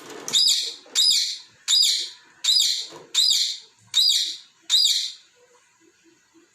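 Pet parrot chirping: seven loud, high-pitched chirps in an even row, a little under one a second.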